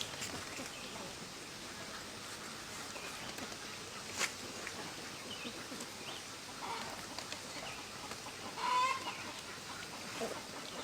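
Poultry calling now and then over a steady outdoor background, the loudest call near the end, with a sharp click a little after four seconds.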